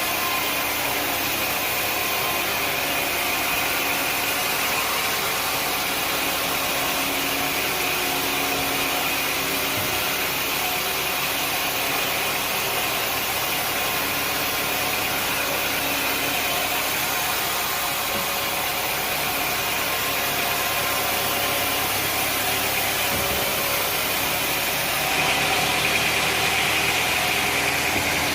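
Sawmill machinery running steadily with a continuous engine-like drone and hiss, a little louder near the end.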